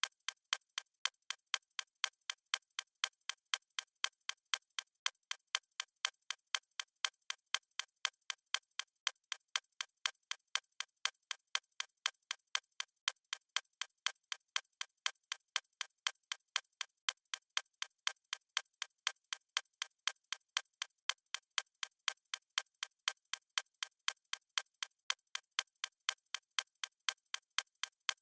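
Fast stopwatch ticking sound effect: thin, even clicks at about four a second.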